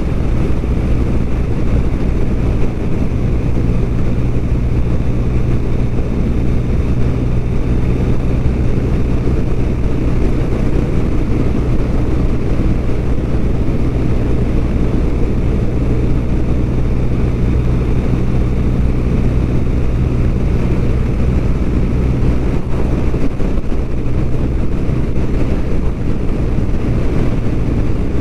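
BMW R1200RT's boxer-twin engine running at a steady cruising speed, a constant low drone with wind noise over it, unchanging throughout.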